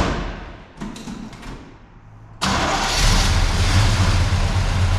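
1984 Chevy C20 truck's engine starting after sitting for about two years: a few short knocks, then about halfway through the engine catches suddenly and runs loud and steady.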